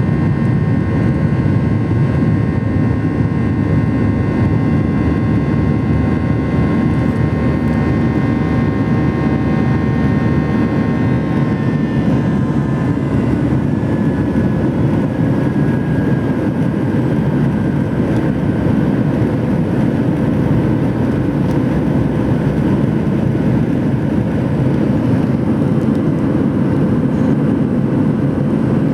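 Steady cabin roar of a Boeing 737-800 in flight, with airflow noise and the jet engines running. A high fan whine carries several tones that slowly fall in pitch around the middle.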